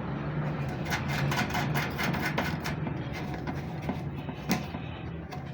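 A quick series of clicks and light taps from handling and fitting small parts as an inverter's display panel is put back in place, then one more sharp tap about four and a half seconds in, over a steady low hum.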